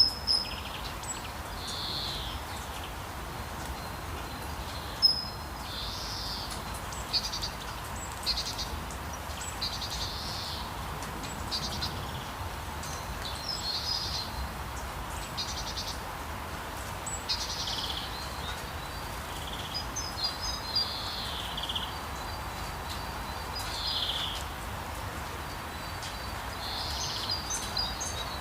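Birds chirping and singing over a steady hiss of rain, with short high calls every second or so, some of them quick trills.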